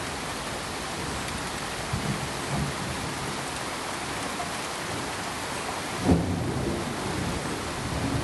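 Steady rain hiss with brief low rumbles of thunder, the strongest about six seconds in.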